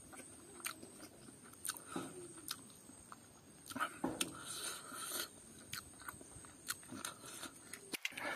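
A man eating rice and pork curry by hand, chewing mouthfuls with scattered short mouth clicks and smacks.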